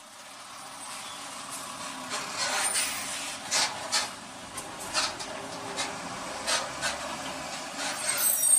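Road noise from a vehicle dashcam: a steady hiss of traffic and tyres, broken by a dozen or so sharp clicks and knocks.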